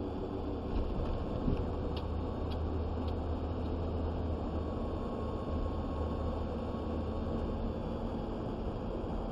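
Steady engine and road noise inside a moving vehicle's cab, with a low hum. A few faint light ticks come in the first few seconds.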